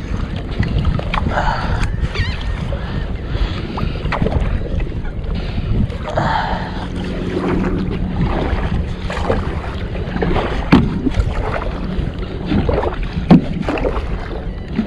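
Kayak on the water, with paddle and water splashing and wind rumbling on the microphone. Two sharp knocks come near the end.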